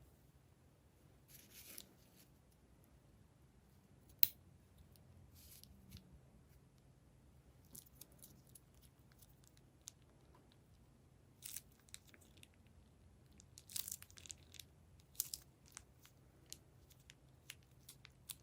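Scattered soft crackles and clicks from plastic and slime being handled, with one sharp click about four seconds in and a busier run of crackles in the last few seconds.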